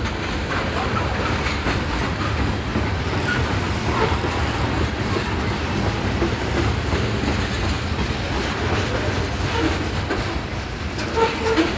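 Freight cars rolling past close by: a steady rumble of steel wheels on rail, with clicking as the wheels cross the rail joints.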